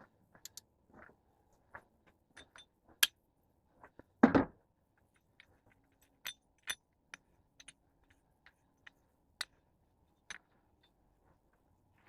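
Scattered light metallic clinks and ticks of hand tools against metal parts, with one louder thump about four seconds in.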